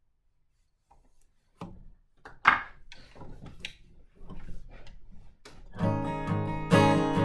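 Near silence, then a few scattered knocks and clicks, the loudest about two and a half seconds in. About six seconds in, an acoustic guitar starts strumming chords.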